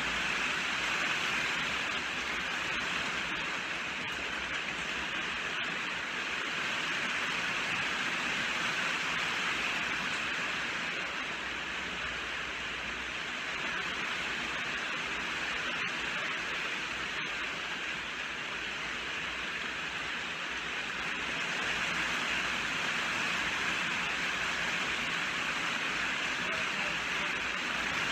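Steady heavy rain falling as an even hiss, swelling and easing slightly, with a few faint drop ticks.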